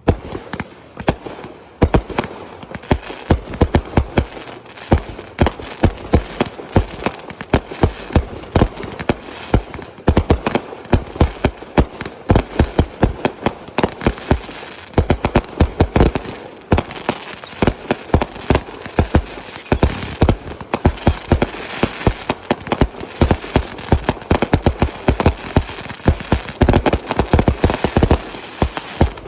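A dense, nonstop barrage of aerial fireworks bursting: several sharp bangs a second over a continuous crackling hiss, with louder booms scattered throughout.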